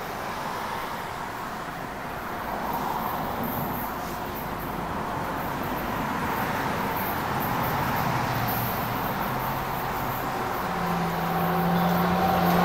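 Amtrak AEM-7 electric locomotive and its passenger cars approaching, a rumble of wheels on rail that grows steadily louder. Near the end a steady hum from the locomotive comes in as it draws close.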